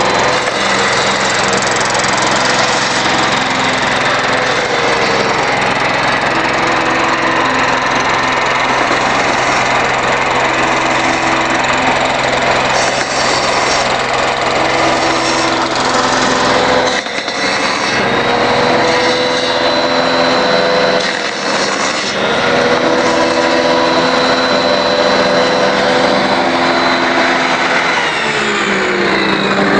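Small generator engine running steadily on woodgas, loud, its pitch wavering slightly up and down. The engine is noisy, with a leaking exhaust system.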